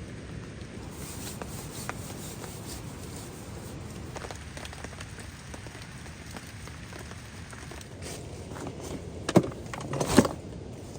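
Steady rain falling, with a few sharp cracks or knocks about eight to ten seconds in, the loudest of them near the end.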